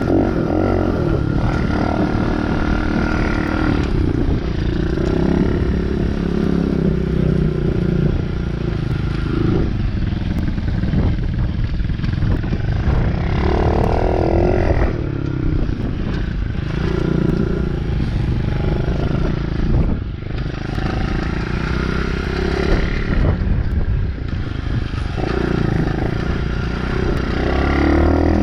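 DB14 dirt bike engine running under way, its revs rising and falling again and again as it is ridden.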